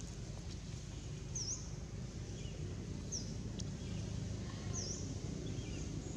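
A bird repeating a short, high chirp about every second and a half, over a steady low rumble of background noise.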